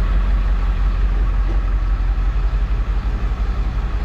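Tow truck's engine running as it drives out with a vehicle in tow, a steady low rumble.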